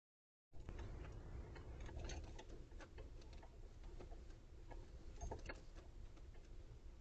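Raccoons at a bird feeder working at the sunflower seeds: many small, irregular clicks and taps over a faint steady low hum, the sound cutting out completely for a moment at the very start.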